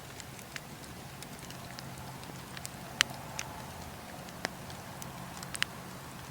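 Wood campfire burning, its coals and logs crackling with a soft steady hiss and scattered sharp pops. The loudest pop comes about three seconds in.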